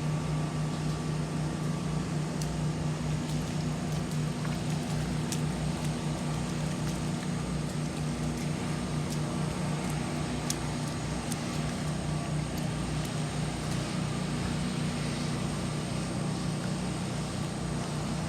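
A motor running steadily with a low, even hum and a few faint clicks.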